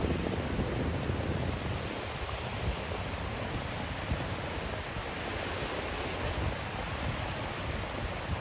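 Steady white noise hiss, with a fuller low rumble easing off about two seconds in.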